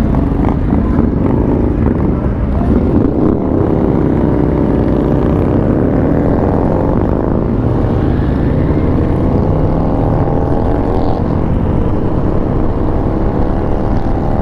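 Harley-Davidson Street Bob's V-twin engine running under way, its note climbing between about three and six seconds in as the bike accelerates, then holding steady, with wind rush over the microphone.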